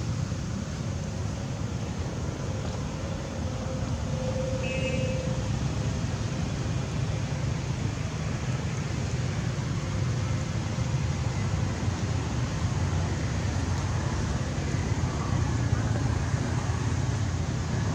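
Steady low rumble of road traffic, with a brief high tone about five seconds in.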